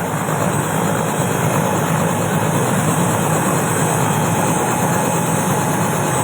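Helicopter's turbine engine and rotor running steadily on the ground after landing.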